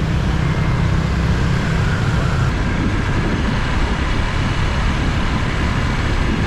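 Motorbike engine and surrounding city traffic heard from the back of a moving motorbike: a steady, dense road noise with a heavy low rumble.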